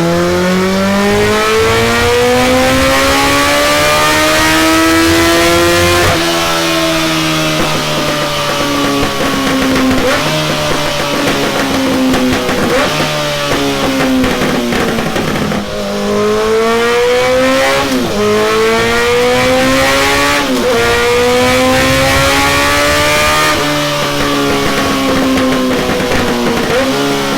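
Kawasaki ZRX's inline-four engine running hard through a Delkevic tri-oval stainless steel exhaust on a dyno. The exhaust note climbs in pitch, then drops sharply and climbs again, several times over, as in runs through the gears.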